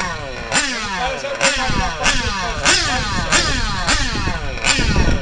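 Nitro glow engine of a 1/8-scale on-road RC car (Novarossi nine-transfer-port) running hard around the track. It screams up in short throttle bursts, and each one falls away in pitch as the throttle comes off, about seven or eight times.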